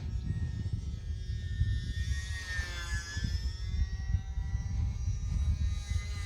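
Whine of the UMX Turbo Timber's small electric motor and propeller in flight, its pitch dipping around the middle and rising again, over heavy wind rumble on the microphone.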